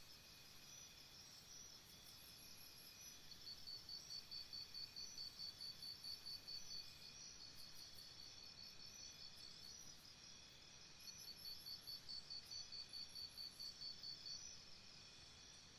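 Crickets chirping faintly. One sings in two runs of evenly spaced chirps, about five a second, over a steadier high trilling.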